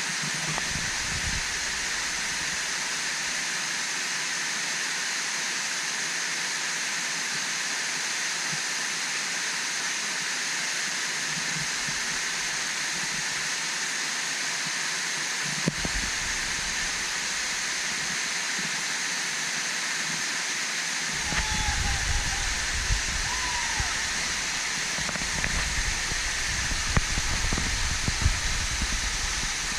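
Waterfall rushing steadily, a constant hiss of falling water. In the last third, low rumbling bumps on the microphone come in over it.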